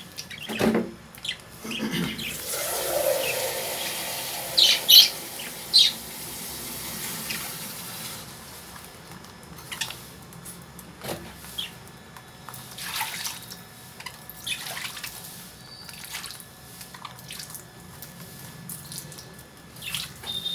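Caged lovebirds chirping, with three loud, sharp high calls about five seconds in and scattered short chirps and clicks afterwards. A hissing rush, like running water, sounds underneath for several seconds near the start.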